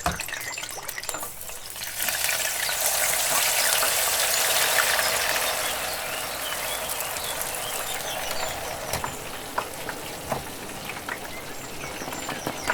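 Yogurt-marinated chicken pieces frying in hot oil: a dense, steady sizzle that starts sharply about two seconds in and continues, easing slightly later. Faint bird chirps come before it.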